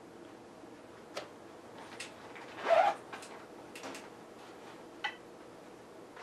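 A few sharp clicks and knocks, with one louder short scrape or rustle about two and a half seconds in, over a faint steady room hum.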